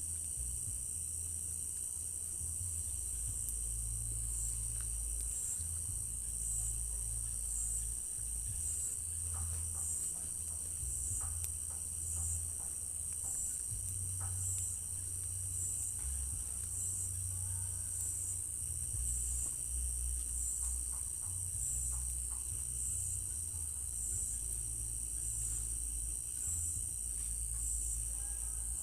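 Night chorus of crickets: a steady, high-pitched trill, with a second insect chirping in a regular pulse a little more than once a second through most of it. A low rumble runs underneath.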